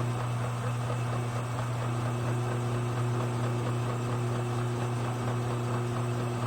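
Steady machine hum: a low electric drone with a few faint steady higher tones, unchanging throughout.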